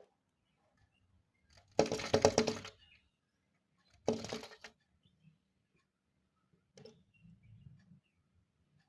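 A bird pecking at window glass in rapid bursts of hard taps: a run of fast taps lasting about a second, a shorter run about two seconds later, and a faint brief one near the end.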